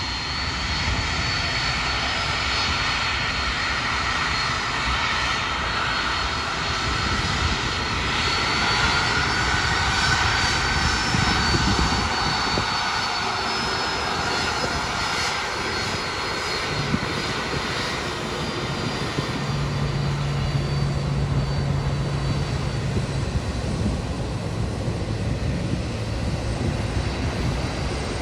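Airliner jet engines running as a plane passes, a broad roar with a thin high whine, growing loudest about ten seconds in and then easing off.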